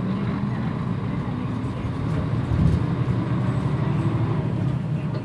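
Mitsubishi PJ-MP35JM bus under way: steady diesel engine drone and running noise, with a brief low surge about two and a half seconds in.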